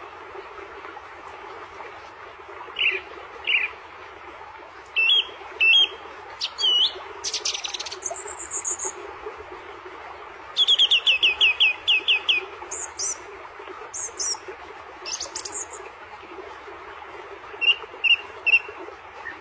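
A songbird singing varied phrases: short down-slurred whistles, a rapid run of about eight falling notes near the middle, and brief very high notes, over a steady background hiss.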